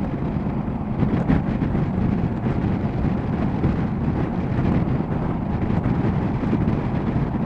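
Motorcycle riding at road speed: a steady rumble of engine and road noise under wind buffeting the microphone.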